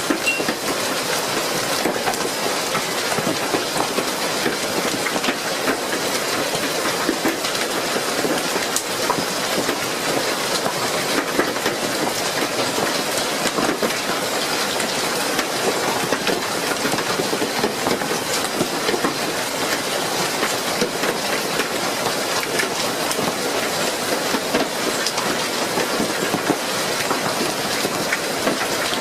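Hailstorm: hail and heavy rain pelting down in a continuous dense clatter of small impacts.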